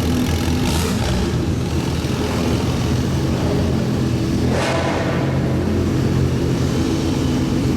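Supercar engines running and revving as cars drive off from a meet, with two short rushing bursts, about a second in and just past the middle.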